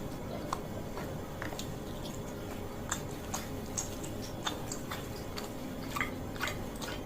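A person chewing mouthfuls of Acehnese fried noodles close to the microphone, with irregular short clicks and smacks.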